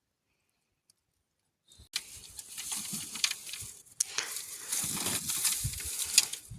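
Near silence, then a dense crackling, pattering noise starts suddenly about two seconds in, with a sharp jump in level about four seconds in.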